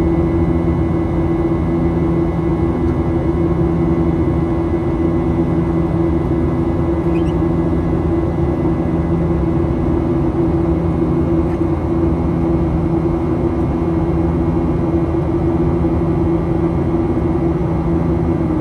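Steady cabin noise of a Boeing 737-800 in flight: the rush of air and the drone of its CFM56-7B engines, with a hum of a few steady low tones.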